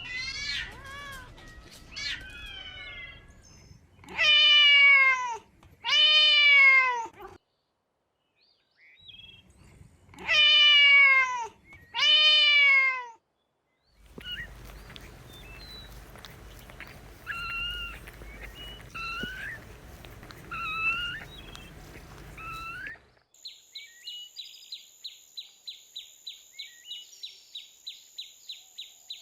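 Domestic cats meowing: a few small calls, then four loud, drawn-out meows in two pairs, then softer short meows. In the last few seconds this gives way to a rapid, even chirping with a steady high-pitched whine.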